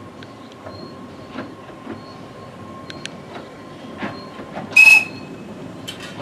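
Small narrow-gauge mine-railway train running slowly out of a tunnel, its wheels clicking over the rail joints over a steady rumble and a faint steady whine. About five seconds in comes one short, loud, shrill note.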